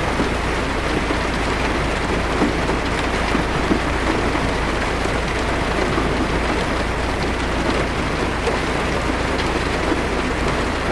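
Heavy rain falling steadily on a car's roof and windshield, heard from inside the cabin, with a steady low rumble underneath.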